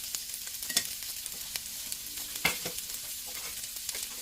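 Garlic and sliced onion sizzling as they fry in hot oil in a pan, with scattered clicks and knocks throughout; the sharpest knock comes about two and a half seconds in.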